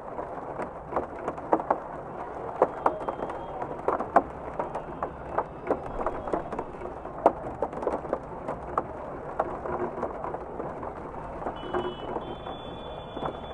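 Steady rain, with frequent irregular drops tapping on a nearby surface.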